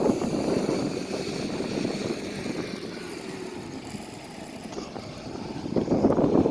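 Heavy machinery running with a steady engine drone and a faint whine, easing off slightly midway and growing louder again near the end.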